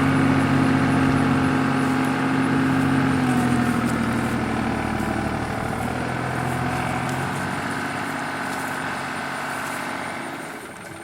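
New Holland TN75 tractor's diesel engine running steadily. Its pitch dips slightly a few seconds in, and the sound fades gradually, falling off more sharply near the end.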